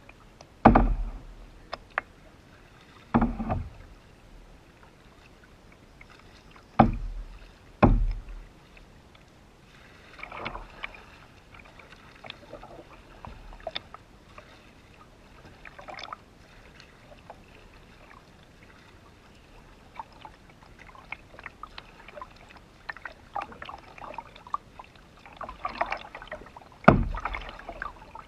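Canoe on the water: irregular splashing and swishing from paddle strokes, broken by five loud, deep thumps, one near the start, one about three seconds in, two close together around seven to eight seconds in, and one near the end.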